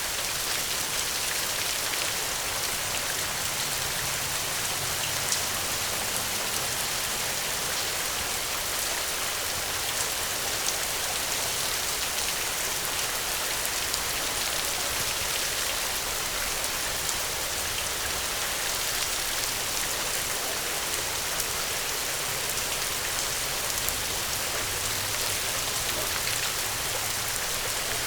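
Steady heavy rain, an even hiss of falling rain with scattered small clicks and ticks of drops through it.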